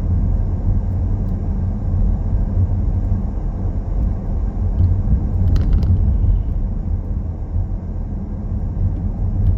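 Car driving, with a steady low rumble of road and engine noise. A brief cluster of clicks a little past halfway.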